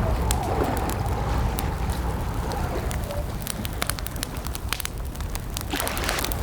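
Campfire crackling: irregular sharp pops and snaps over a low steady rumble of the burning fire.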